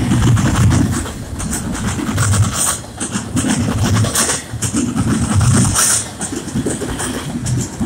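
Canadian National double-stack container train passing at a grade crossing: the steady rumble and clatter of its well cars' wheels on the rails, with low thumps about once a second as the wheel sets go by.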